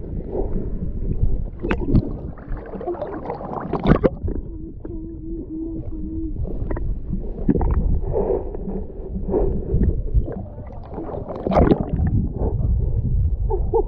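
Water sloshing and gurgling around a small boat over a steady low rumble, with a few sharp knocks.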